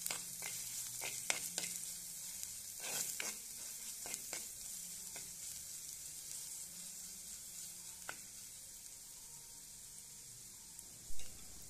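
Crushed ginger and garlic sizzling in hot coconut oil in a clay pot, the sizzle slowly fading. A wooden-handled spoon scrapes and knocks against the pot several times in the first few seconds as the garlic is stirred, and once more later. A short dull thump near the end is the loudest sound.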